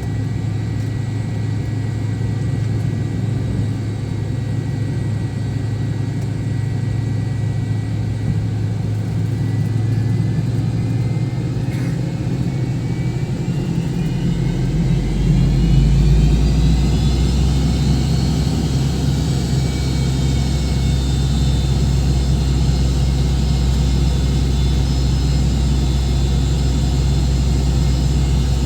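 MD-88's rear-mounted Pratt & Whitney JT8D turbofans, heard from inside the cabin, running with a steady low rumble. About halfway through they spool up with a rising whine and then hold a louder, deeper drone.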